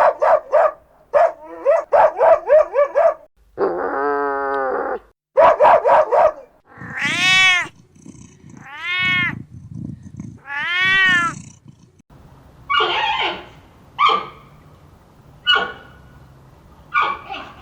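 Cat meowing: a string of separate calls, quick short ones at first, then three long meows that rise and fall in pitch, then shorter calls toward the end.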